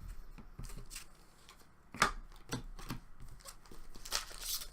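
Trading cards and a card-pack wrapper being handled: scattered small clicks and taps of cards, the sharpest about two seconds in, and a short crinkle of wrapper near the end.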